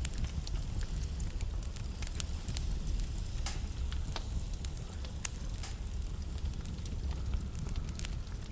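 Wood fire burning in a fireplace: a steady low rumble of flames under frequent irregular sharp crackles and pops from the burning logs.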